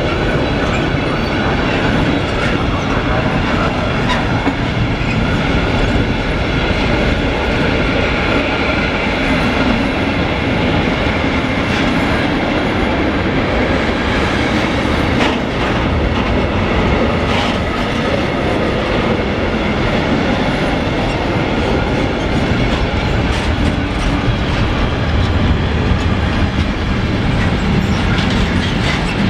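Freight train passing, its wagon wheels clattering over the rail joints in a steady loud rumble with occasional sharp clicks.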